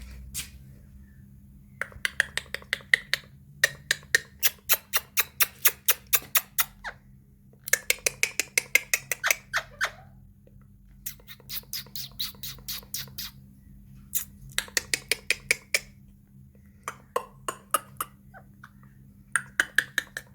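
Green ringneck parrot squawking in rapid runs of short calls, about six a second, each run lasting one to three seconds with short pauses between.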